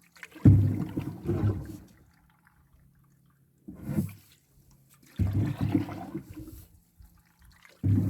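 Water sloshing and splashing in four separate surges, each starting suddenly and then dying away over about a second.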